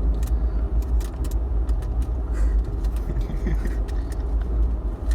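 Car cabin rumble: a steady low engine and road drone heard from inside the vehicle, with a few light clicks and rattles.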